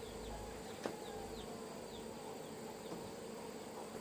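Steady hum of flying insects, with a run of short, high falling chirps in the first two seconds and a single sharp knock about a second in.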